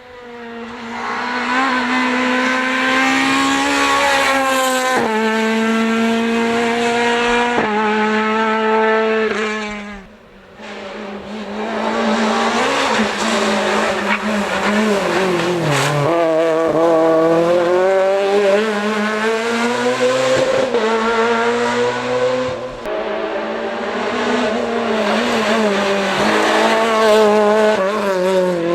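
Renault Clio R3 rally car's naturally aspirated four-cylinder engine at high revs as the car is driven hard, its pitch stepping down sharply at gear changes. The sound drops away briefly about ten seconds in, then the engine revs hard again, rising and falling through a run of bends.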